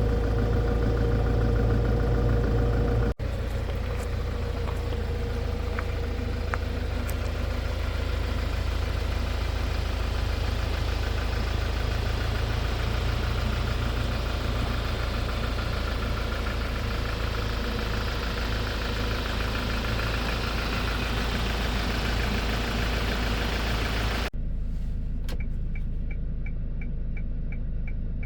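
Hyundai Porter II truck's engine idling steadily. Near the end it is quieter, with a regular rapid ticking over it.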